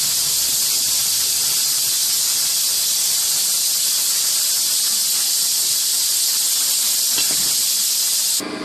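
A loud, steady hiss that cuts off abruptly near the end and gives way to a car engine idling.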